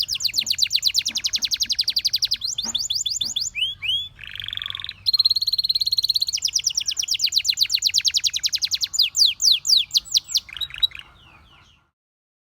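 Domestic canary singing a sequence of fast trills, rapidly repeated high notes that switch from one pattern to another, with a lower buzzing roll about four seconds in. The song stops shortly before the end.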